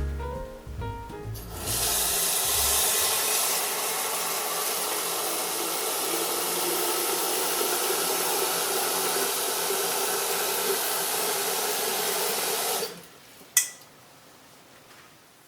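Water running steadily from a tap for about eleven seconds, then shut off abruptly, followed by a single sharp click.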